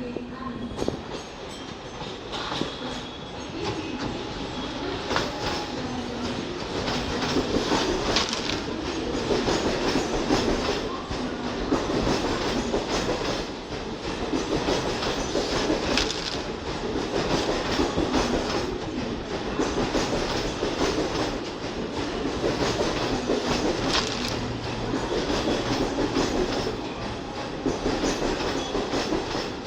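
Bombardier EMU suburban train running at speed, its wheels clattering steadily over rail joints with a continuous rumble.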